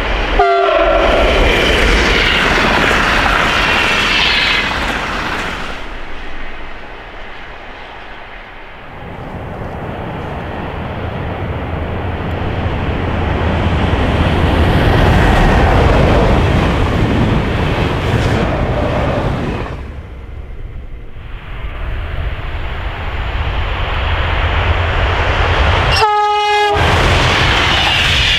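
Express trains passing at speed, a loud rushing of wheels and air that swells and fades as each train goes by. A train horn sounds at the start, falling in pitch as the train passes, and again in a blast of about a second near the end.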